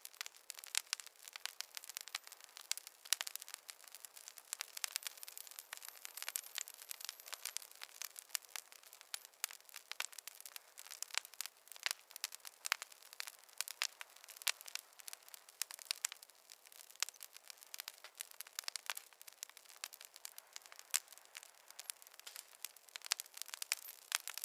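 Wood fire crackling: frequent sharp pops and snaps over a soft, steady hiss.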